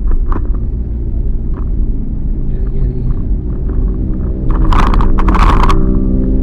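Car engine and road rumble heard from inside the cabin, low and steady, with a loud rushing noise lasting about a second, starting about four and a half seconds in.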